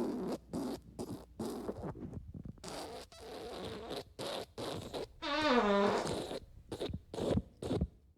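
Fart sound effects in quick succession: a string of short sputtering farts, then one longer squeaky fart that falls in pitch about five seconds in, followed by a few more short ones.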